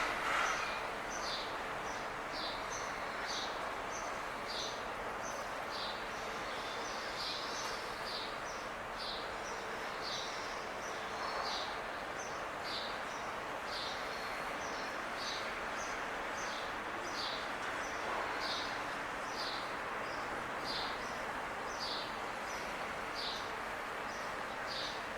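A small bird chirping over and over, short high chirps about one and a half times a second, over a steady rushing background noise.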